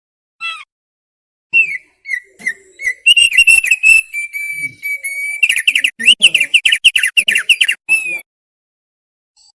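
Thick-billed heleia (opior paruh tebal) singing: a short note, then a long run of loud whistled phrases that turns into fast, chattering trills in the second half, stopping about eight seconds in.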